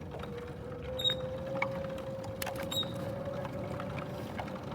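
Bicycle being ridden along a park path: a steady whine with a light rattle underneath, and a couple of sharp clicks with a brief metallic ring.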